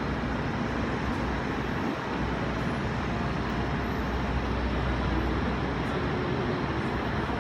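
Steady running noise of an MTR Ma On Shan Line C-Train: a constant low rumble with an even rushing hiss.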